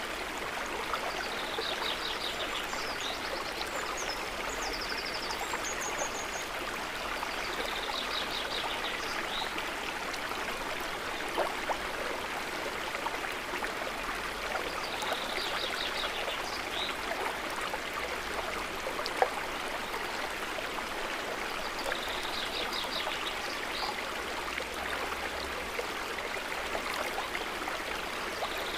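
Water trickling and gurgling steadily. Over it, a short run of rapid high-pitched notes comes back about every seven seconds.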